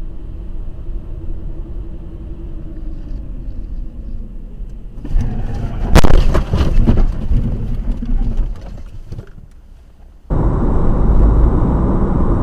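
Dashcam audio of a car driving, steady road and engine noise; about six seconds in, one sharp loud bang of a collision followed by rattling and scraping that dies away. Near the end the recording cuts to louder road noise from another drive.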